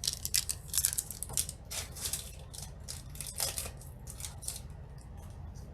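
Irregular, rapid crinkling and rustling of a foil trading-card booster pack being opened and its cards handled, a string of short, crisp sounds.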